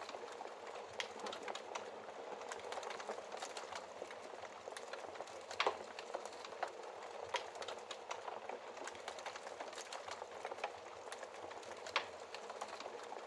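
Wood fire in a fireplace crackling steadily, with frequent small pops and ticks and a few louder snaps, one about halfway through and one near the end.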